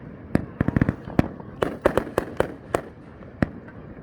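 Fireworks going off: many sharp bangs and cracks in quick, irregular succession, thinning out after about three seconds.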